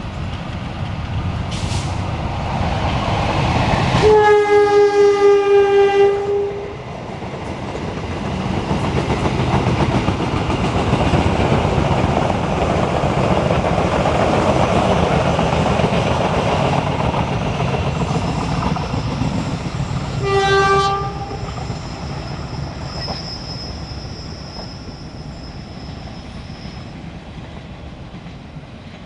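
A train passing, its diesel locomotive sounding the horn in one long blast of about two seconds and later one short blast. The rolling noise of the wheels and carriages swells as the train goes by and then fades away.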